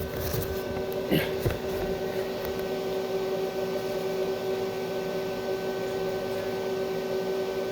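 Steady electrical hum of a stick-welding machine left running between welds, with a few short clicks in the first second and a half.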